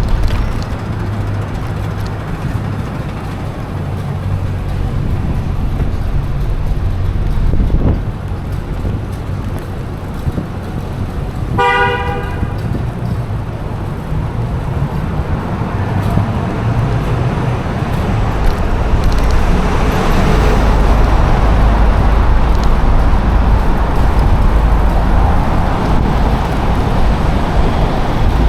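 Street traffic with a steady low rumble that grows louder in the second half, and a single short car horn toot about twelve seconds in.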